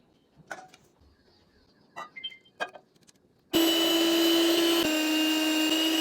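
A few light clicks and knocks, then an electric kitchen appliance motor switches on about three and a half seconds in and runs at a steady high-pitched whine. It cuts out for an instant near five seconds and starts again at once.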